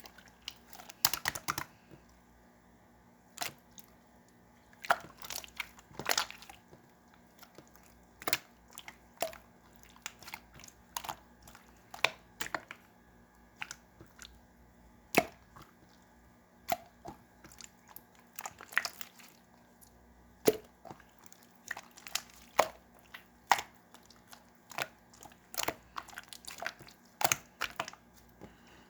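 Clear slime being pressed and stretched by hand, giving irregular sharp clicks and pops, one or two a second and sometimes in quick clusters.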